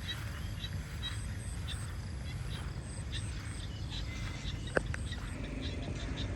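Outdoor countryside ambience: short high-pitched animal chirps repeat at about three a second over a steady low rumble. A single sharp click comes about five seconds in.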